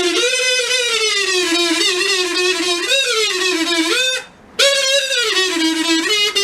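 Music: a single buzzy, pitched melody line that slides between notes, played in two long phrases with a short break about four seconds in.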